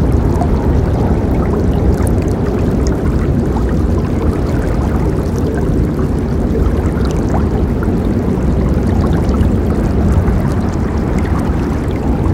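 River water rushing and gurgling over rocks, a steady deep wash with small splashes flecking through it.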